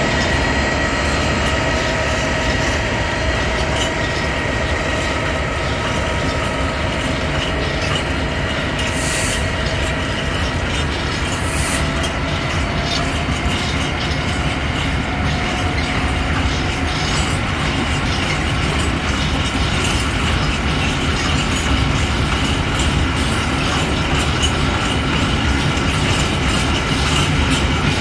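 Long freight train of open wagons rolling slowly past as it moves off, wheels clicking over rail joints with a steady rumble and faint high wheel squeal.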